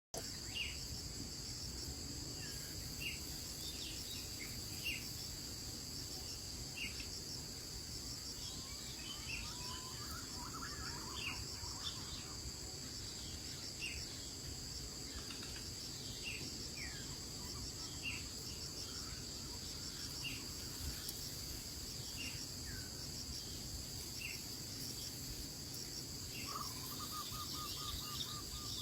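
Steady high-pitched insect chorus with short single bird chirps every second or two, and a brief lower trill near the end.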